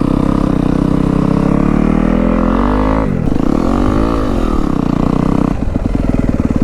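Dirt bike engine running at low speed. Its note dips about three seconds in, climbs again with a bit of throttle, then settles.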